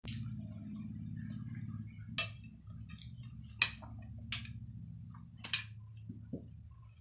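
Close-miked eating sounds from a momo meal: four sharp clicks or smacks, spaced over a few seconds, over a steady low hum and a faint high whine.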